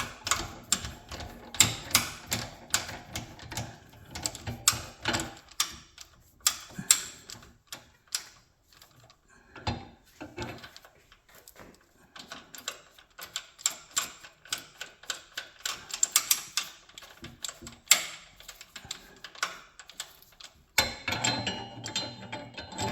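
Irregular metal clicks, clinks and knocks of tractor three-point hitch hardware (pins and links) being handled and fitted while a sprayer is attached. The clicks thin out for a few seconds in the middle.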